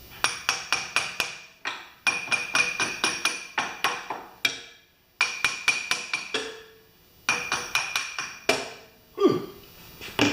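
Small brass hammer tapping rapidly on a metal pressure-washer pump part, in several runs of quick strikes, about five a second. The struck part gives a metallic ring through each run.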